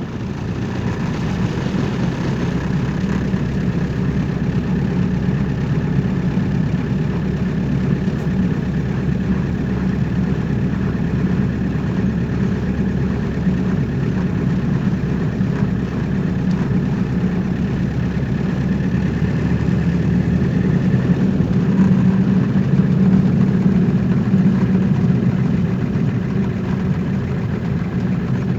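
Car engine running steadily, a low hum that grows a little louder about three-quarters of the way through, then eases off.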